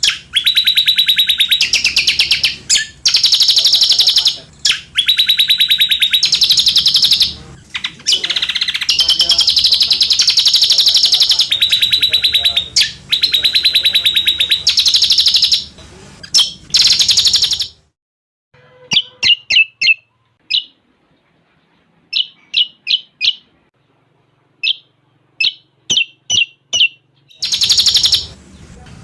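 Common iora (cucak combok) singing a fast song filled in with cililin phrases: long, very rapid buzzing trills in phrases of one to two seconds. A little past the middle the trills give way to small clusters of short, quick chirps, and the trills come back near the end.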